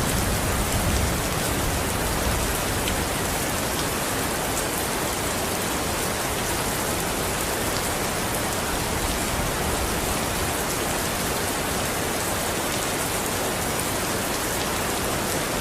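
Steady rain falling, an even hiss with scattered drop ticks. The tail of a low rumble of thunder fades out about a second in.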